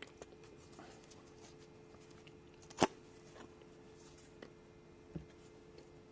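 Scattered light clicks and taps of small parts and tools being handled during starter motor disassembly, with one sharper click about three seconds in.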